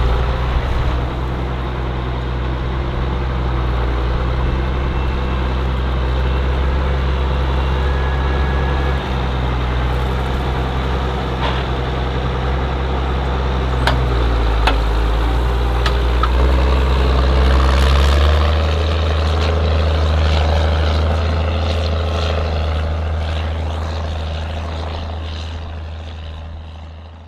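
Ford TW tractor's diesel engine running steadily under load, a deep drone whose note shifts about two-thirds of the way through, with a few light clicks, fading out near the end.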